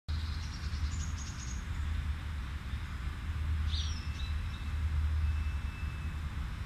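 Steady low rumble with birds chirping over it: a short run of rapid high chirps from about half a second to a second and a half in, and another brief call near four seconds.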